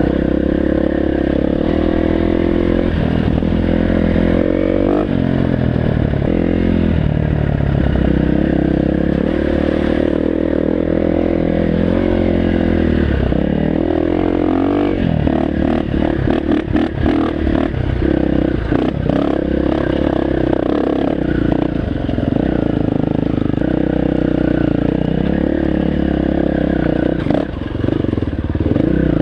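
Dirt bike engine running under load on a rocky trail, its pitch rising and falling as the throttle is worked. A run of rattling knocks and clatter comes from the bike over rough ground in the middle stretch.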